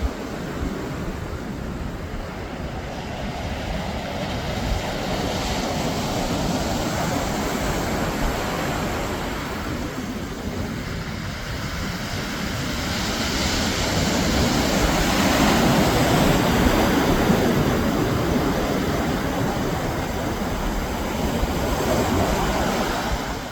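Sea waves washing onto the beach with wind buffeting the microphone, a steady rushing that swells to its loudest around the middle and eases off again.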